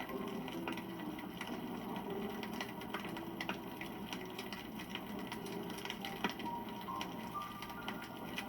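Wood campfire crackling, with irregular sharp snaps and pops over a steady rustle of burning wood.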